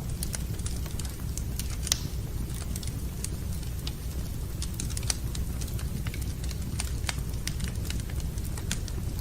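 Wood fire crackling in a fireplace: irregular sharp pops and snaps over a steady low rumble, with one louder pop about two seconds in.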